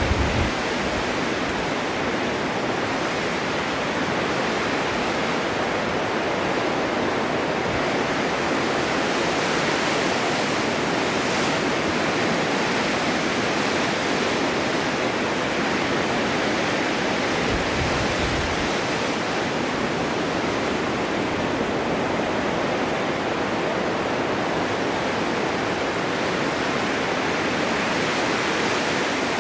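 Snowstorm wind blowing steadily, an even rush with no distinct gusts, and a short low rumble about eighteen seconds in.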